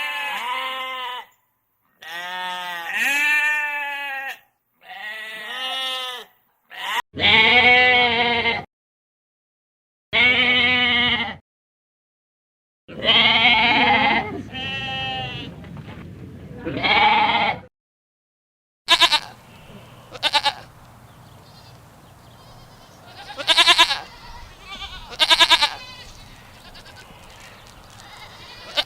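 Bleating livestock: a string of separate bleats, each about a second long, wavering in pitch and split by short silences. In the last third come shorter, sharper bleats, spaced a few seconds apart over a steady background hiss.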